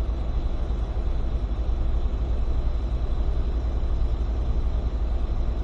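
Freightliner semi truck's diesel engine running steadily with a low, even rumble.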